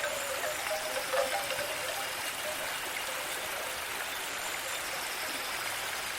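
A small stream trickling steadily, with a few soft wind-chime notes in the first second or so.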